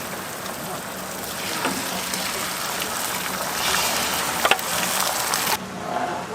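Food sizzling on a hot griddle, a steady hiss with a few light clicks; the sizzle grows louder in the middle and its high hiss drops off abruptly about five and a half seconds in.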